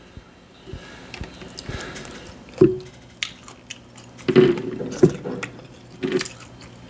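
A person chewing and biting food close to the microphone: a wet, buttery seafood boil eaten mukbang-style. Soft wet chewing runs throughout, broken by louder mouth smacks about two and a half, four and a half, five and six seconds in.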